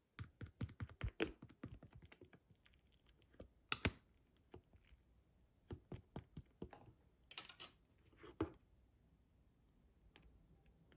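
Clear and fluffy slime being squeezed and poked by hand, giving quick runs of small clicks and pops. The clicks come fastest in the first couple of seconds, then in scattered clusters.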